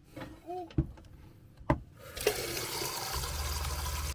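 A few clicks and knocks, then a tap opens about two seconds in and water runs steadily from the faucet into a sink. A low hum joins near the end.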